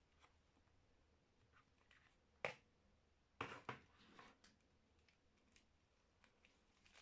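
Quiet handling sounds of a bar of soap being unpacked: a single sharp tap about two and a half seconds in, then a short run of clicks and rustling about a second later, with faint ticks between.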